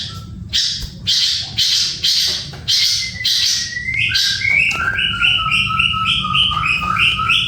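A caged songbird calling: first a string of harsh, raspy calls about two a second, then from about halfway a fast, evenly repeated phrase of two alternating pitches.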